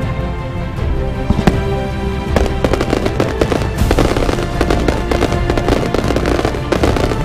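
Fireworks going off in a rapid, crackling string of bangs, sparse at first and dense from about two and a half seconds in, over steady background music.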